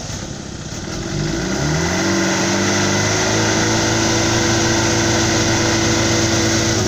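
Motorcycle engine revving up over about two seconds, then held steady at high revs under load as it pulls a truck on a tow rope.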